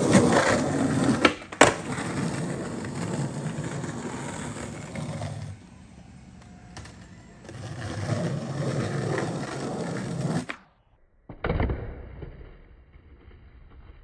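Skateboard wheels rolling, with two sharp clacks of the board in the first two seconds, then a second stretch of rolling that cuts off abruptly about ten and a half seconds in; a low thud follows a moment later.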